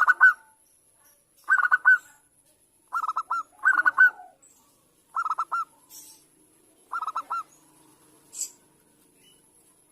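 Zebra dove (perkutut) cooing: six short, stuttering phrases of quick notes, repeated every one to two seconds. A brief high chirp comes near the end.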